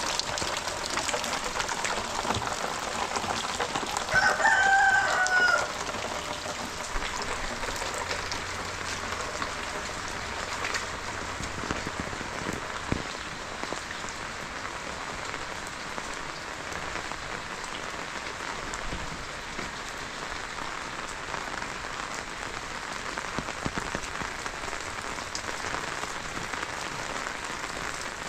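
Steady rain falling, with a rooster crowing once about four seconds in, the loudest sound here.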